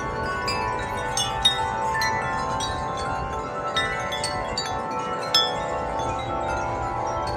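Several wind chimes ringing together in gusty wind, their long overlapping tones sounding all through, with a few sharper strikes standing out, the loudest about a second and a half in and another about five seconds in. A low rumble of wind runs underneath.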